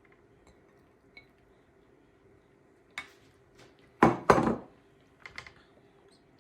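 Kitchenware clattering: a few light clicks, then two loud knocks of pots or dishes close together about four seconds in, followed by a couple of lighter clinks.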